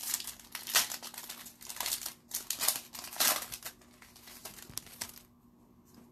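Wrapper of a hockey card pack being torn open and crinkled in the hands: a rapid run of crackling rustles that stops about five seconds in.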